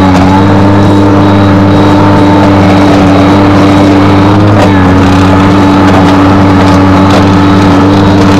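Skid steer engine running steadily and loud, with an even pitch that shifts slightly about halfway through.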